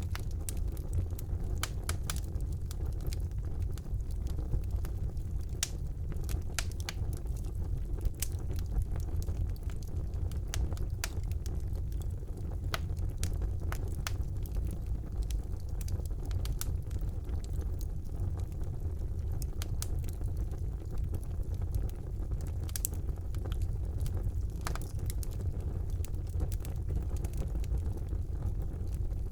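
Wood fire burning in a fireplace: a steady low rumble with frequent sharp crackles and pops at irregular moments.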